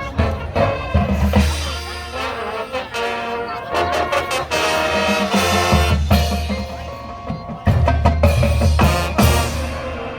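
High school marching band playing: brass (trumpets and trombones) with drumline percussion and low bass hits, swelling to a loud passage about two thirds of the way through.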